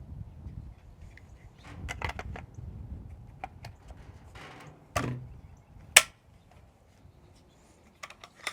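FN SCAR rifle being reassembled, with handling noise and a series of sharp clicks and knocks as its parts are fitted together. The loudest is a sharp click about six seconds in, followed by a couple of lighter clicks near the end.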